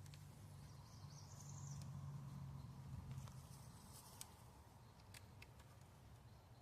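Near silence: faint outdoor ambience, with a brief high chirp about a second in and a few faint ticks in the second half.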